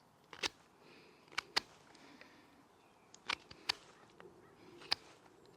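Victorinox Ranger Swiss Army knife blade cutting into a stick while whittling a wedge: a series of sharp, irregular clicks as the blade bites and chips break away, about seven in a few seconds.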